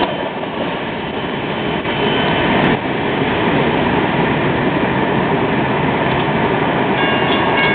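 Long freight train's cars rolling along the rails as the end of the train passes and pulls away, a steady noise of wheels on track.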